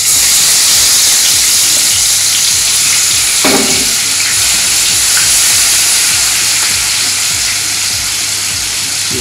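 Ginger, green chilli and garlic paste sizzling hard in hot oil in a wok: a loud, steady frying hiss that eases slightly toward the end.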